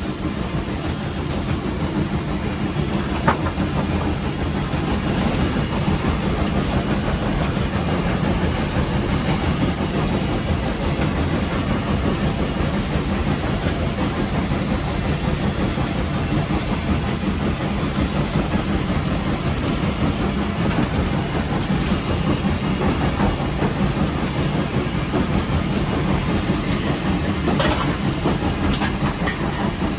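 Nevada Northern No. 81 steam locomotive running, heard from inside its cab: a steady, dense rumble of the engine and the wheels on the rails, with one sharp click about three seconds in.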